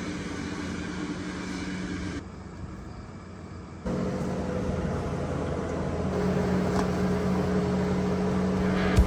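Tractor engine running steadily. It drops away abruptly for about a second and a half, starts again about four seconds in, and grows a little louder toward the end.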